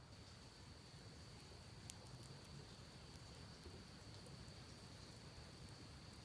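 Campfire crackling faintly with a few sparse sharp pops, one clearer about two seconds in, over a low steady murmur of creek water and a thin steady high tone.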